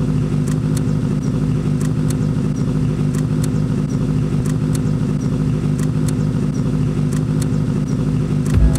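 Vintage car's engine idling steadily, with a deep low thump near the end.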